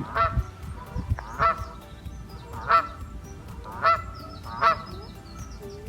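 Geese honking: about five separate calls spaced roughly a second apart.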